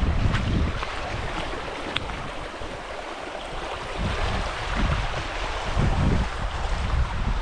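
River water rushing in a steady hiss, with wind buffeting the microphone in uneven low gusts.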